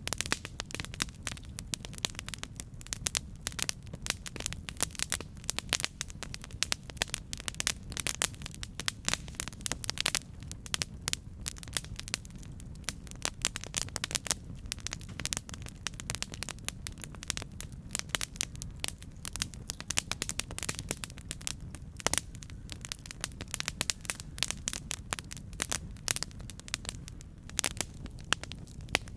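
Campfire burning, with dense irregular crackles and pops over a steady low rumble of flame.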